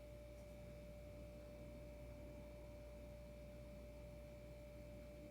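Near silence: room tone with a faint steady tone held unchanged throughout.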